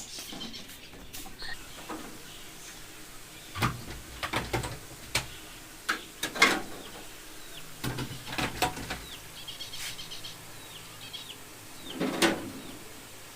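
Irregular knocks and clatters of household objects being handled and set down, with a louder bang about six seconds in and again near the end. A bird chirps faintly in the background.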